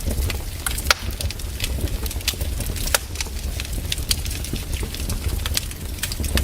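Fireplace wood fire crackling: irregular sharp pops and snaps, a few louder ones standing out, over a steady low rumble.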